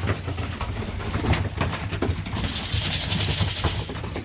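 Racing pigeons cooing in the loft, with scattered light clicks and knocks, and a brief rustling hiss about halfway through.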